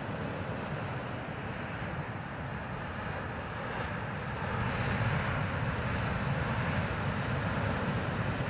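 Heavy ocean surf breaking on the shore, a steady rumbling wash with wind on the microphone, growing louder about halfway through.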